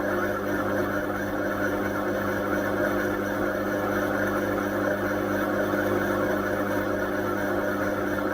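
Indesit washing machine running, heard through its door glass: a steady mechanical hum with a rushing noise over it that holds even throughout.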